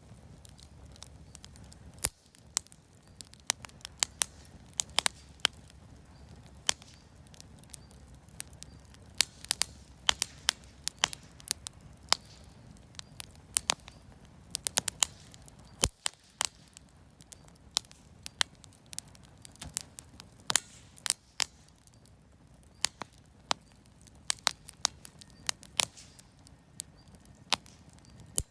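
Campfire of scrap lumber and firewood crackling, with irregular sharp pops, several a second, over a low steady rush of the flames.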